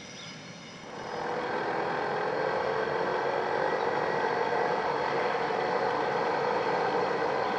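A train passing close by. Its steady running noise rises about a second in, holds, and starts to fade at the very end.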